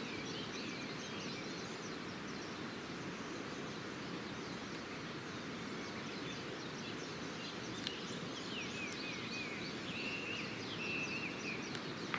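Small birds chirping and calling over a steady outdoor hiss. There are many quick sliding chirps, and near the end a few longer held notes. A couple of faint single clicks come in, one a little before the middle and one about two-thirds of the way through.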